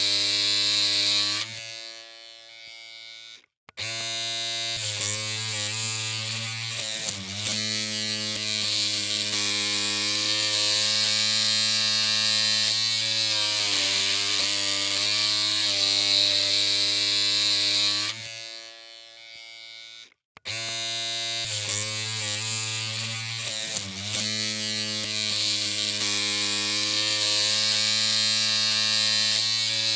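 Electric hair clippers running with a steady humming buzz. It cuts out about two seconds in and again around eighteen seconds, then starts up again after a couple of seconds each time.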